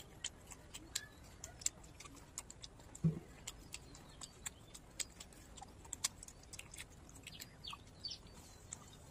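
Eating sounds from fried chicken: many small, irregular chewing and lip-smacking clicks, with one dull knock about three seconds in.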